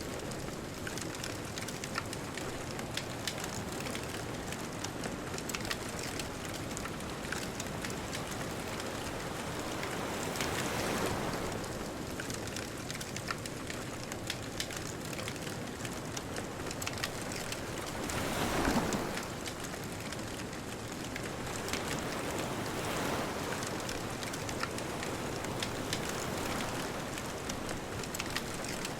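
Bonfire crackling, with many small sharp pops over a steady hiss, while distant ocean waves swell and break three times, the loudest about two-thirds of the way through.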